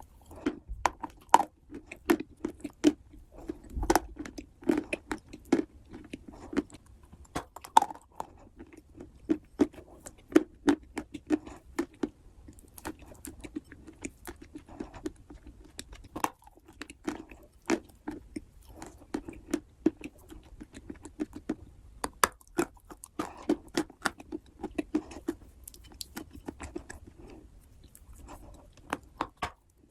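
Close-up chewing and biting of wet clay: soft squelching with many sharp, irregular clicks and smacks of the mouth.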